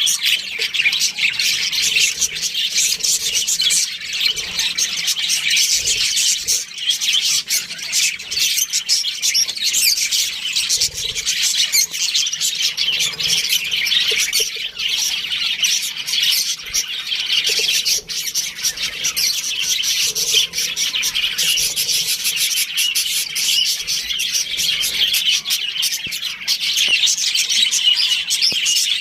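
A flock of budgerigars chattering together without a break, many overlapping high chirps, warbles and squawks at once.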